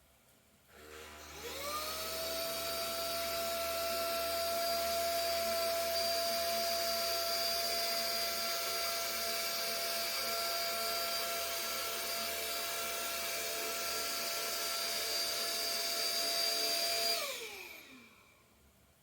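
SMDEE D2 futon vacuum cleaner's motor starting up, spinning up to a steady high whine. It runs for about fifteen seconds, then winds down with a falling pitch and stops.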